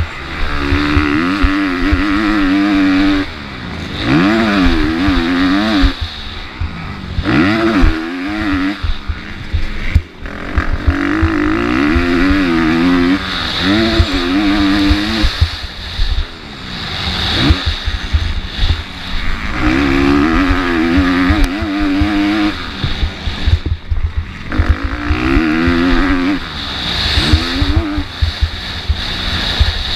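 Motocross bike engine racing on a dirt track, revving hard and dropping back every second or two as the rider accelerates, shifts and brakes, with wind rushing and knocks from the bike underneath.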